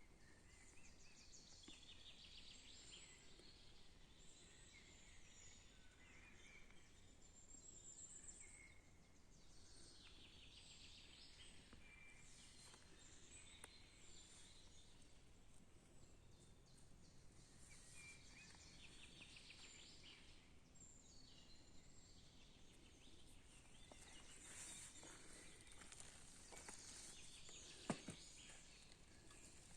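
Faint forest birdsong: several birds chirping and trilling on and off over a low steady background hiss. A single sharp knock sounds near the end.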